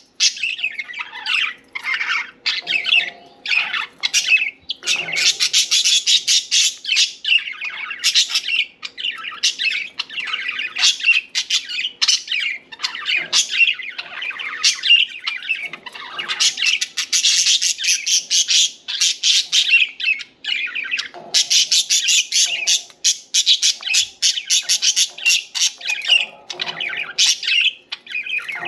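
Several pet budgerigars chirping and chattering nonstop, with stretches of fast clicky warbling mixed with short squawks.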